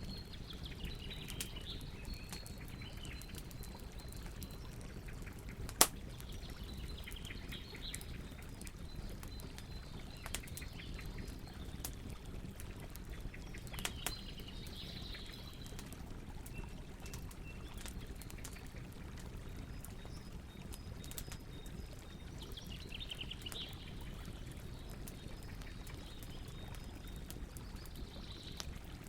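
Campfire burning with a steady low rush and scattered crackles and pops, one sharp pop louder than the rest about six seconds in. Birds chirp and trill in the background at several points.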